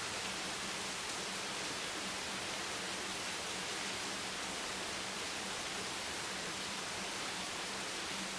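Steady, even rain hiss with no separate drops standing out, and a faint low hum underneath.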